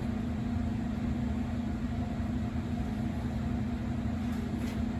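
Steady low mechanical hum with a constant drone, holding at an even level throughout.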